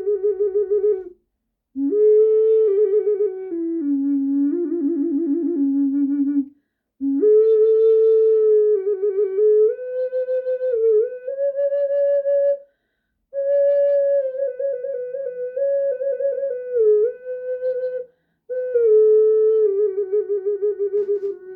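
An ocarina playing a slow melody with a strong wavering vibrato, in phrases broken by four short pauses.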